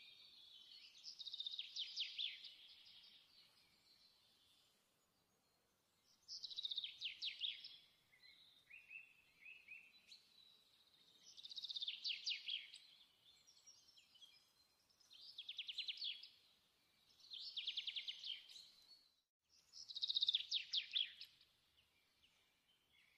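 A songbird singing short, rapid trilled phrases, each about a second long and falling slightly in pitch, repeated every two to four seconds.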